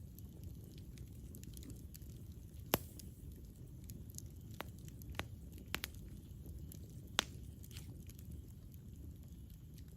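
Campfire burning with a steady low rush and scattered sharp wood crackles and pops, a loud snap about three seconds in and another about seven seconds in.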